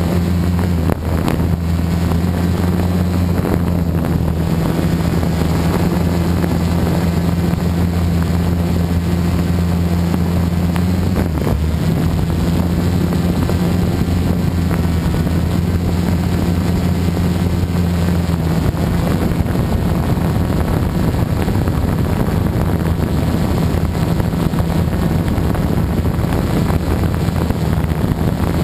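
Gaui 330X electric quadcopter's motors and propellers running in flight, a steady low hum with a slight shift in pitch around a third of the way in and again later. Wind noise on the microphone runs under it.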